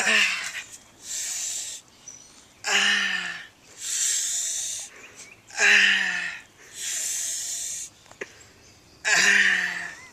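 A person breathing hard in pain: hissing gasps in, each followed by a short groan that falls in pitch, repeating about every three seconds. There are four groans in all.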